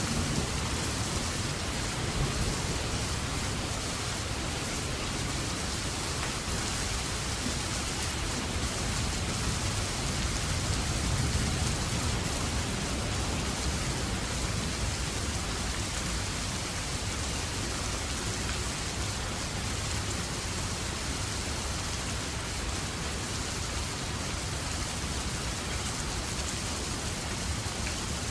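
Steady rain falling, an even hiss of drops on surfaces. A low rumble swells under it near the start and again around ten seconds in.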